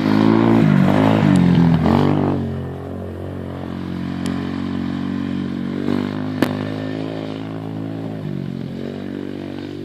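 Apollo 250 dirt bike engine revving up and down for the first couple of seconds, then running steadily at a lower, even speed. A single sharp click about six and a half seconds in.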